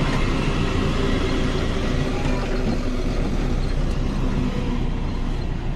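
Loaded lorry's diesel engine and road noise heard from inside the cab while driving: a steady drone whose engine tone eases off about halfway through.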